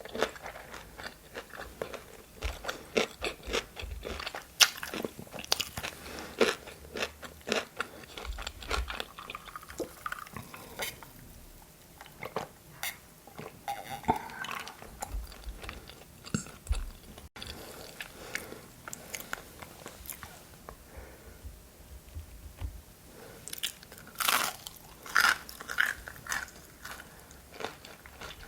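Close-miked eating of crunchy food: bites crackle and chewing goes on. There are dense crunches through the first third, quieter chewing in the middle, and a loud run of crunches near the end.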